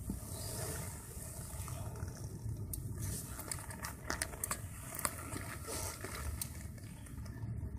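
Vespa Primavera scooter engine idling as a low, steady rumble, with scattered light clicks over it.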